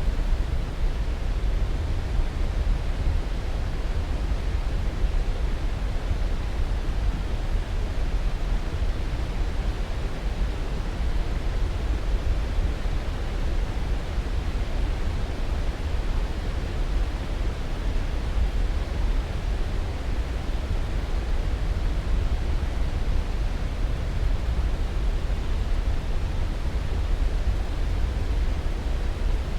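Steady, unchanging rushing noise, heaviest in the low end and thinning toward the high end, as in a sleep-aid noise track.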